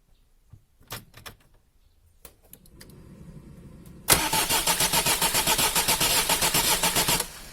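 Starter motor cranking a diesel engine for about three seconds, with an even pulse of about four or five strokes a second, and the engine does not catch. It is being cranked to purge air from the fuel line of a freshly rebuilt Bosch common-rail injector. A few clicks and a low hum come before the cranking.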